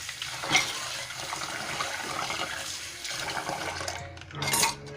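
Water running from a tap into a rice cooker container, with a sharp knock about half a second in and a louder clatter near the end.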